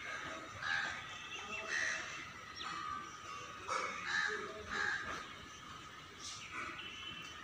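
Birds calling outdoors: a series of short, loud calls, about one a second, over a steady background hiss.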